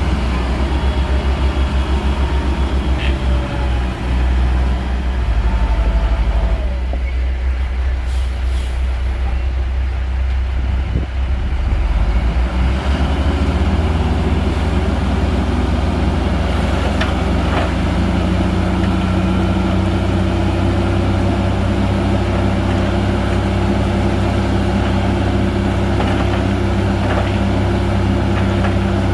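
Diesel engine of a heavy Shantui bulldozer running continuously while working. Its note shifts in the first half, then holds steady from about halfway through.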